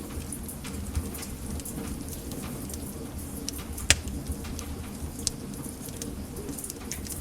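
Wood fire burning in a fireplace: a low steady rumble with scattered crackles and pops, the loudest pop about four seconds in.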